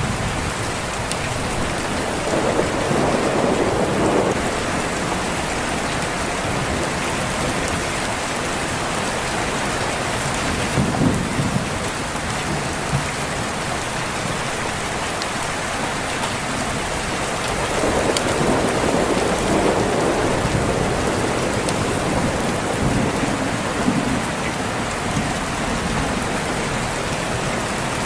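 Steady heavy rain with two low rolls of thunder, one about two seconds in and one just past the middle, and a few sharp crackles from a fireplace.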